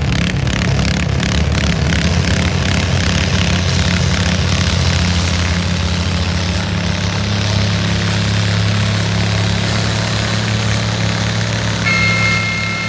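Farm tractor engine running loud and steady under load during a tractor pull. Near the end, a brief high whistle-like tone sounds for about a second and a half.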